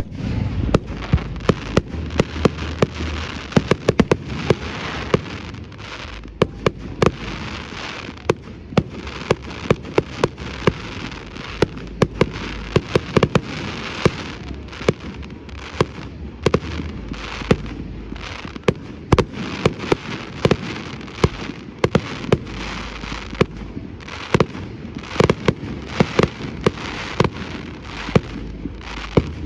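Fireworks display: a dense, continuous barrage of shell bursts, with sharp bangs often several a second over a steady crackle.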